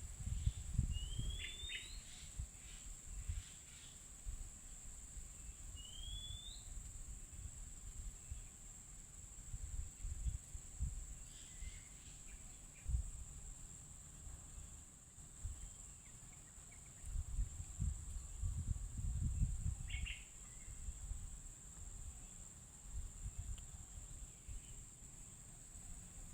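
Wild birds calling: two short rising whistles in the first seven seconds, then a few brief chirps, over a steady high-pitched hum. An uneven low rumble on the microphone comes and goes and is the loudest sound.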